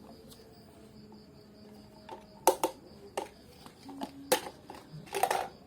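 Small plastic toy cars and plastic boxes being handled: a few sharp clicks and knocks, spaced about a second apart, starting a couple of seconds in, as a toy car is put back into a box.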